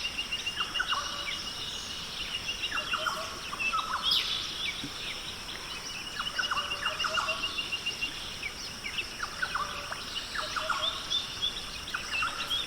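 Rainforest ambience: several birds calling with short, sharp descending notes and a rapid trilled series of notes, over a steady high insect drone.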